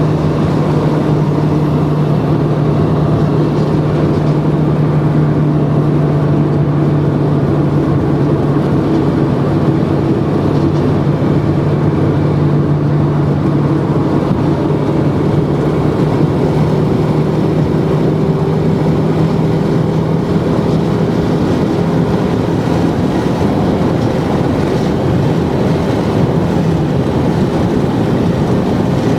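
Steady road and wind noise of a car travelling at highway speed, with a constant low engine drone.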